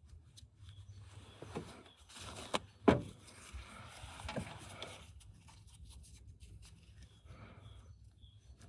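A few short knocks and scrapes of objects being handled, the loudest about three seconds in, over a low steady hum.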